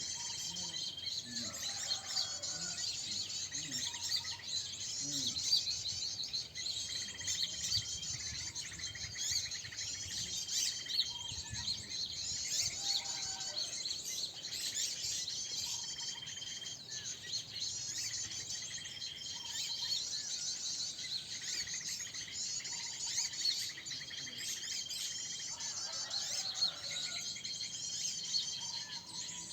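Many small birds chirping densely and without a break, high-pitched. A short, flat whistle note repeats every three to six seconds over the chirping.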